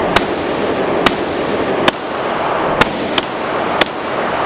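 Handgun being fired at an indoor range: six sharp shots at an uneven pace of about one a second, over a steady background noise.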